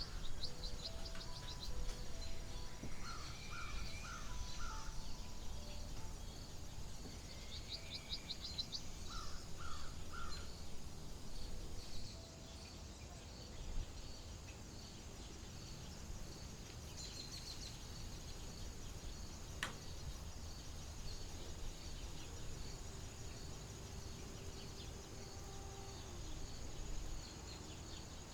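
Outdoor nature ambience: birds calling in short repeated phrases, mostly in the first half, over a steady high insect chirping and a low rumble of wind-like noise.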